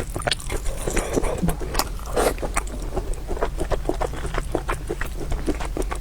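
Close-miked chewing with wet, irregular mouth smacks and clicks: a person eating.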